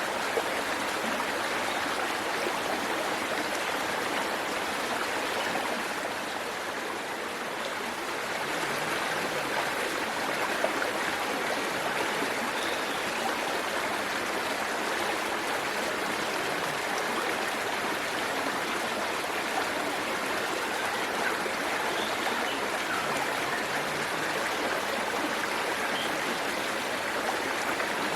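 Waterfall water running and splashing as a steady, even rush, with a slight dip about six seconds in.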